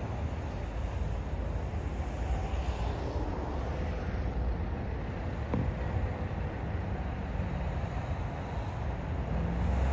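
Low, steady rumble of a distant train approaching along the line, growing louder near the end, over a steady low outdoor background.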